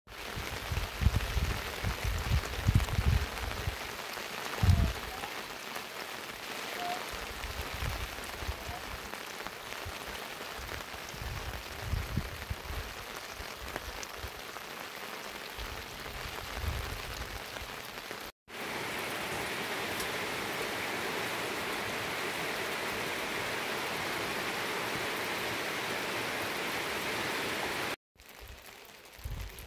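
Steady rain falling, a constant hiss, with low thumps through the first five seconds. The sound drops out abruptly about two-thirds of the way through, then runs on as a smoother, brighter hiss until a second brief dropout near the end.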